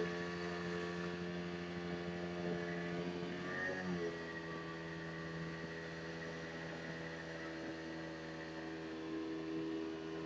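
Motorboat engine running steadily, its pitch wavering and dipping briefly about four seconds in.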